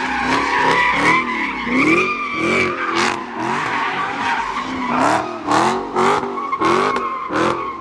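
A car sliding with its tires squealing in a long, wavering screech while the engine revs up and down again and again. There are several sharp pops in the second half.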